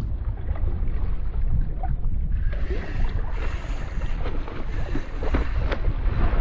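Wind buffeting the microphone out on the water, a rough low rumble, with the rush of water around the boat; a brighter hiss of water joins about two and a half seconds in.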